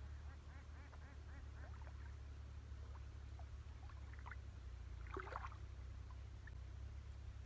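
Faint bird calls: a quick run of short repeated calls in the first two seconds, then scattered single calls, with a brief louder sound about five seconds in, over a steady low hum.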